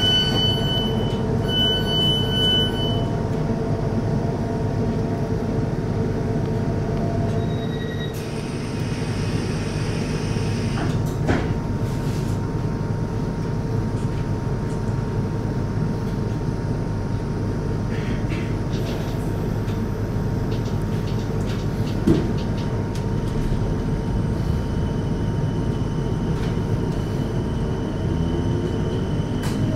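Cabin sound of a Class 455 electric multiple unit standing at a platform: a steady low hum, with a run of repeated high warning beeps in the first few seconds and a hiss of air about eight seconds in. Near the end a rising whine begins as the train starts to pull away.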